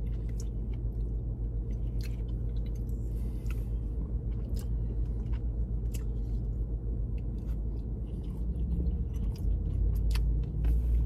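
A person chewing sushi close to the microphone, with scattered small wet clicks and smacks, over a steady low hum in a car cabin.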